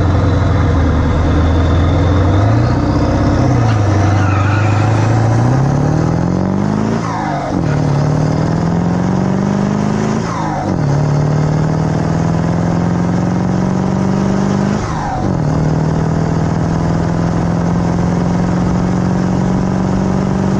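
1996 Ford F-350's 7.3 Powerstroke turbo-diesel V8, with 160/30% injectors and a stack exhaust, accelerating under load. Its pitch climbs and drops sharply at three upshifts, about 7, 10 and 15 seconds in, then holds steady in the higher gear.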